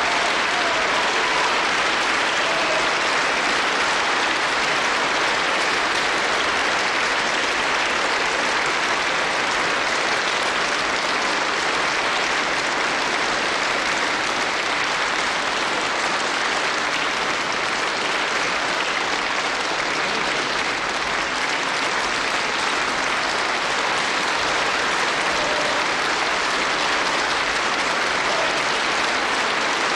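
Concert audience applauding, a steady, unbroken round of clapping.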